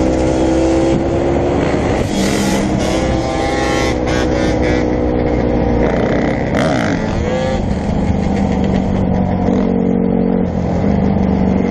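Several dirt bike engines running together, with pitches rising and falling as riders rev.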